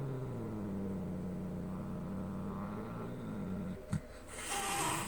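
Domestic cat growling in a long, low, steady drone, then a brief knock and a short hiss near the end.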